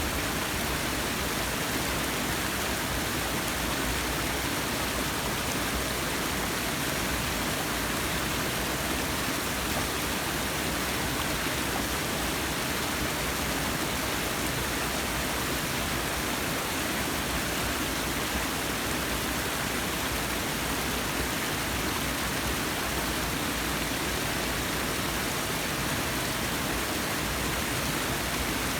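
Waterfall splashing into a forest pool: a steady, even rush of falling water.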